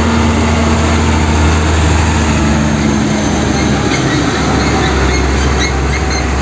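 A heavy truck engine running steadily with a deep, even hum, the engine sound of a tanker truck.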